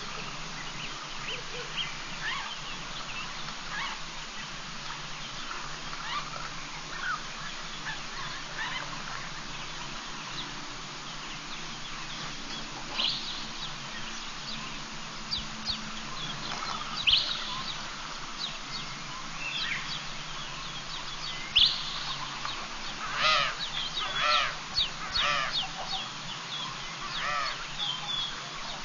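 Wild birds calling: a string of short, sharp calls that come more often and louder in the second half, some of them honking, over a steady background hiss.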